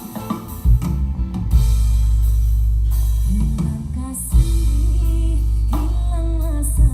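A song with drums, guitar and singing played back through a Polytron PSW 300 speaker system during a sound test, with a very heavy, steady bass.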